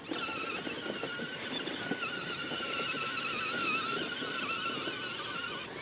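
DJI Neo 2 drone's propellers whining in flight, a steady high hum whose pitch wavers constantly as the motors adjust.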